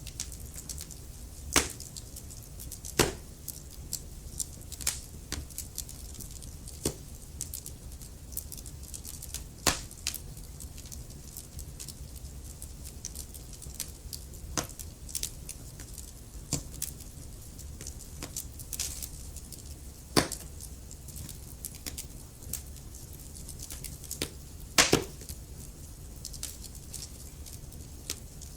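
Wood fire crackling: irregular sharp pops and snaps of burning logs, a few louder ones standing out, over a low steady rumble of the flames.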